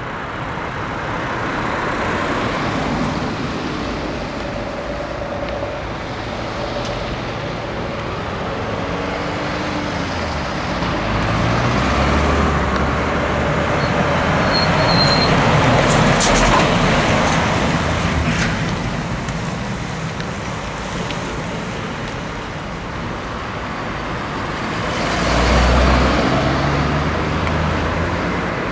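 Road traffic going by, heavy vehicles among it. It swells twice, a long pass about halfway and a shorter one near the end, each with a low engine note under the tyre and road noise.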